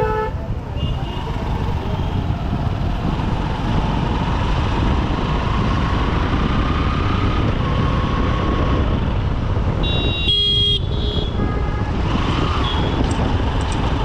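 Honda SP125 single-cylinder engine running through dense traffic noise. A vehicle horn honks once, briefly, about ten seconds in.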